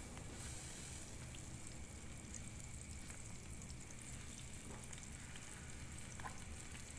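Ground garlic-and-shallot spice paste sizzling softly in hot oil in a frying pan while it is stirred with a wooden spatula, with scattered small pops and ticks.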